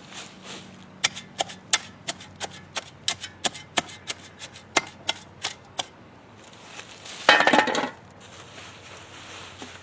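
A garden hand tool working in the soil and plants: a quick run of sharp clicks and taps, two or three a second, then a louder rustling scrape lasting under a second about seven seconds in.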